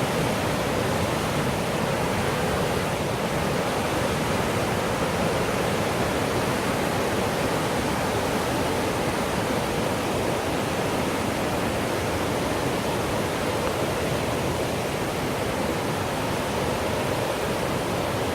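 Rushing water of the Millstone River, a steady, unbroken wash of noise.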